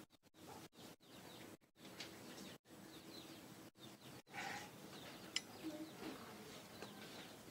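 Faint bird chirps in the background over low room noise, with a single sharp tick about five and a half seconds in; the sound drops out to silence for short moments several times.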